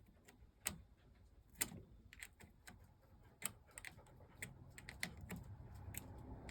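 Irregular sharp clicks and taps of small parts and tools being handled while the rear suspension springs of an RC truck are taken out, with a low rumble of handling noise building near the end.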